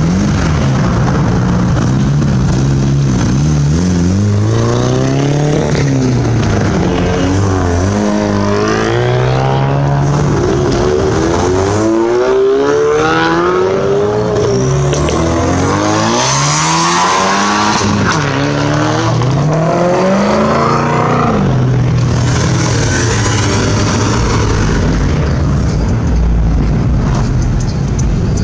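Performance car engines revving hard again and again, pitch climbing and dropping in quick sweeps as the cars pull away. There is a brief burst of hiss about sixteen seconds in.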